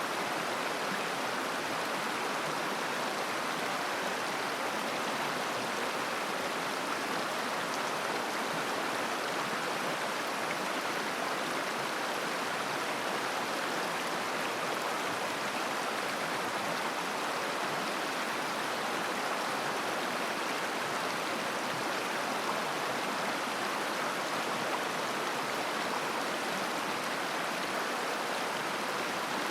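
Mountain river flowing over stones: a steady, even babbling rush of water.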